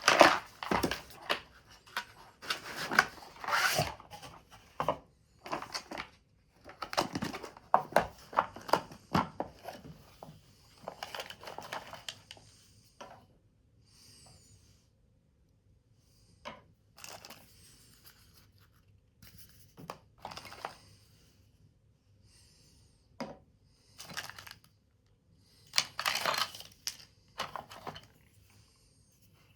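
Paper or thin card being handled, crinkled and torn or cut in irregular bursts: busy for the first dozen seconds, then only scattered rustles, and a short busy spell again near the end.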